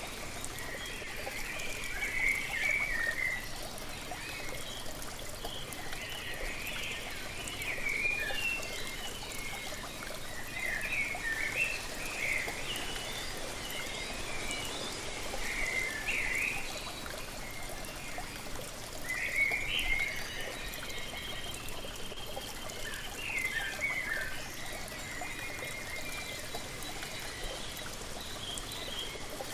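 Waterfall running with a steady rush and trickle of water, while birds sing short chirping phrases every few seconds over it.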